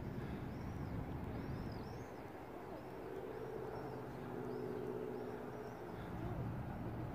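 Small birds chirping, a quick series of short high notes repeating over steady outdoor background noise, with a low steady hum from about three to six seconds in.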